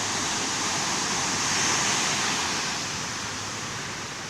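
Ocean surf: a wave breaking and washing up the beach, swelling to its loudest about two seconds in and then slowly fading.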